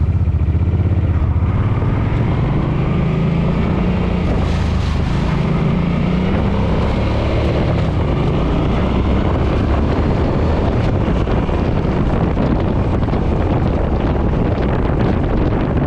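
Suzuki Boulevard M50's V-twin engine pulling away and climbing in pitch over the first few seconds, then running steadily at cruising speed, with wind rushing over the microphone.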